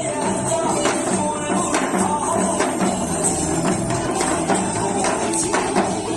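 Janggu hourglass drums struck in fast, steady rhythmic strokes, played along to a trot song's music track.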